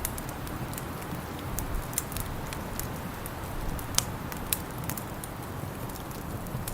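Wood fire crackling, with irregular sharp pops scattered through it, the loudest about four seconds in, over a steady low background rush.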